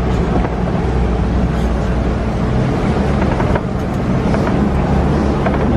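Safari truck engine running steadily while driving, with road noise and some wind noise, heard from aboard the open-sided vehicle.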